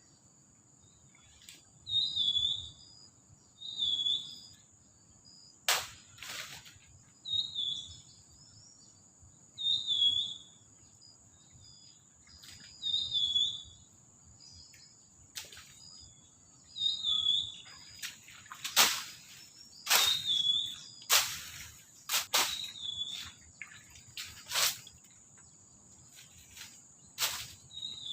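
Forest ambience: a bird repeating a short chirping call every second or two over a steady high insect drone. Sharp knocks or cracks come through now and then, most often and loudest in the second half.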